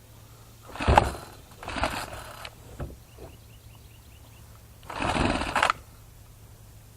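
Three pulls on the recoil starter cord of a Troy-Bilt four-cycle string trimmer, each a short rough rasp under a second long. The pulls come about a second in, about two seconds in and about five seconds in, the last the loudest. The engine does not catch.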